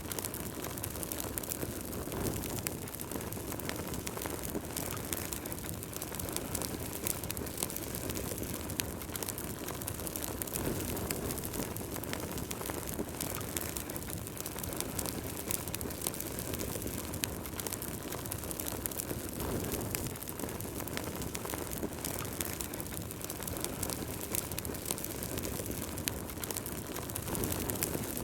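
Wood fire burning in a fireplace: a steady low rush of flames with many small crackles and pops scattered throughout.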